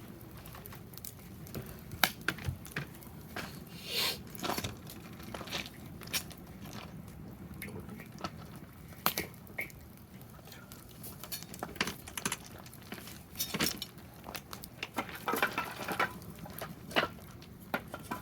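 Wood fire burning in a fire pit, crackling with irregular sharp pops and snaps, with a few short rustles.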